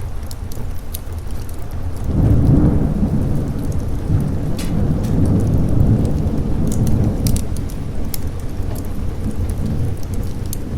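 Thunder rolling over steady rain: a deep rumble swells about two seconds in and fades away by about eight seconds. Scattered sharp crackles sound above it.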